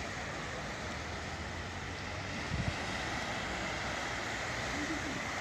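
Steady wash of wind and sea surf, with a short cluster of low thumps about two and a half seconds in.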